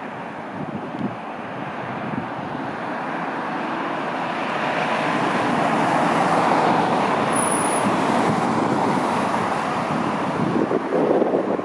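Jet airliner passing on its landing approach: a broad engine rush that swells to a peak about six seconds in and then slowly fades. Wind buffets the microphone near the end.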